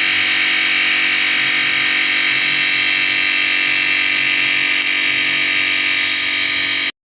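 Air conditioner running with a loud, steady whir and hum, cutting off suddenly near the end.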